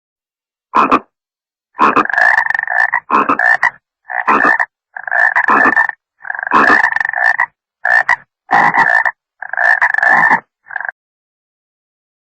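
A series of about ten animal calls, each under a second long, coming irregularly with short silent gaps between them.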